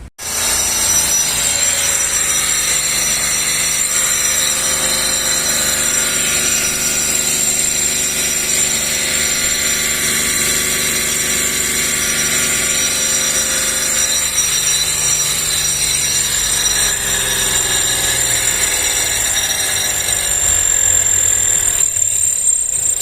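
Car engine running steadily, with a thin high whine held over it.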